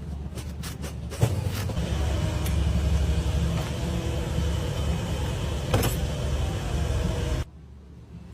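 A steady low machine rumble with a few sharp clicks, cutting off suddenly near the end.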